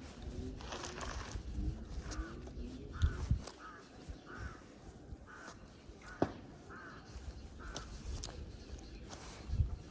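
Crow cawing repeatedly, about eight short calls spread a second or so apart, over a low rumble.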